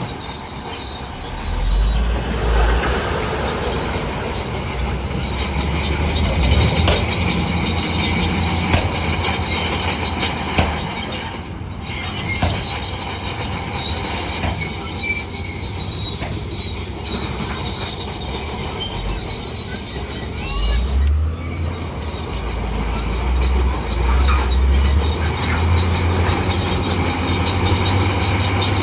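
Bulldozer at work: its diesel engine running under changing load, with the steel crawler tracks giving a steady high squeal and occasional clanks.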